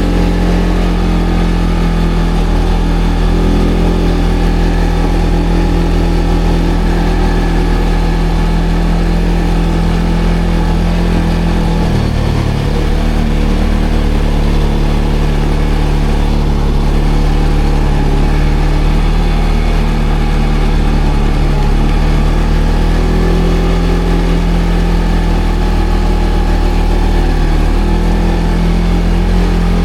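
ATV engine running at a fairly steady, low throttle, with a brief drop in revs about twelve seconds in and small rises and falls in pitch later on.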